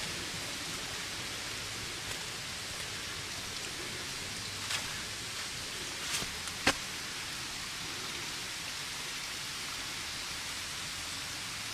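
Steady, even rushing noise with no pitch to it, broken by three short clicks near the middle, the last the loudest.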